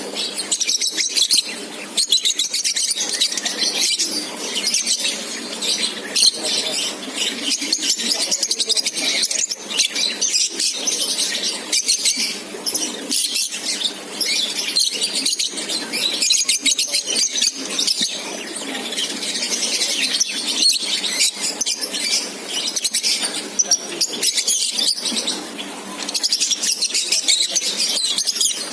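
A flock of lovebirds in a colony chattering, with many high-pitched chirps and squeaks overlapping densely.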